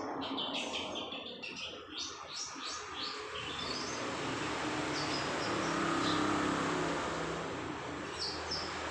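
Small birds chirping in quick series of short falling chirps, thinning out around the middle and picking up again near the end. A low steady hum swells and fades in the background midway.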